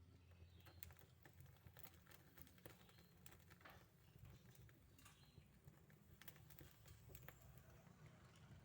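Near silence: faint low hum with scattered soft clicks.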